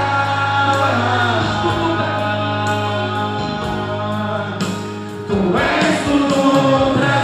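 Christian worship song: singing over sustained accompaniment with a long held low note. About five seconds in, a rising sweep leads into a louder, fuller passage.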